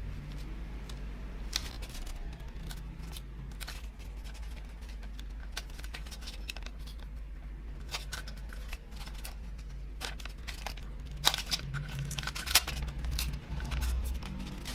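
Irregular snipping, tearing and crinkling sounds from hand work on the bench, made up of many short clicks over a steady low hum. Two sharper clicks come about eleven and twelve and a half seconds in.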